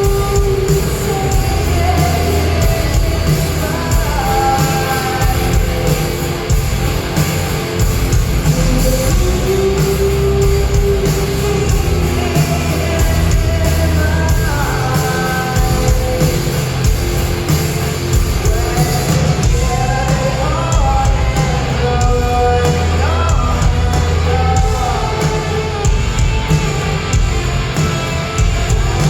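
Live rock band playing with a female lead singer, loud, in a concert hall.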